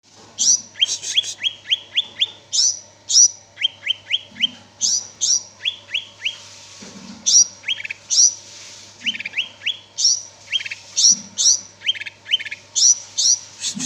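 Green leafbird (cucak ijo) singing continuously: quick groups of sharp, high chirps and rapid downward-sliding whistles, repeated every second or so.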